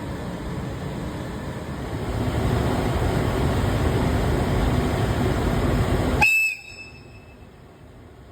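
Freight train behind an EF510 electric locomotive running by: a loud, steady rumble of wheels and cars that grows louder about two seconds in. About six seconds in it cuts off abruptly with a brief high tone, leaving a low hiss.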